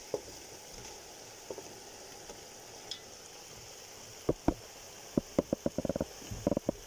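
Masala and oil sizzling steadily in a steel pot as raw fish pieces go in. From about four seconds in comes a quick run of sharp knocks and taps from the steel slotted spatula working against the pot and the fish.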